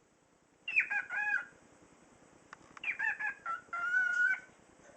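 Cockatiel talking in its high, whistly mimic voice, two short phrases imitating human speech, the second about 3 s in and longer, ending in a held note.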